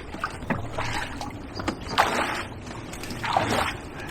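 Water and mud splashing and sloshing in three short bursts as a sunken motorbike is hauled through the riverbed.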